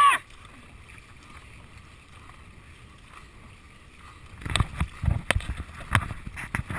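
Dragon boat on the water: a low, even wash for about four seconds, then a run of irregular sharp knocks and thumps starting about four and a half seconds in.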